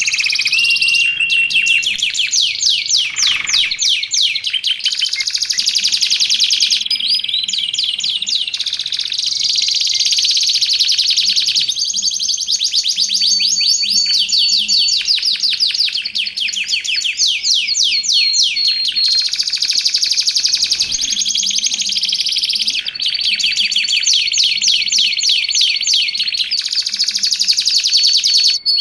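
Canary singing without pause in fast trills: long runs of rapidly repeated chirps, broken now and then by a held high whistle.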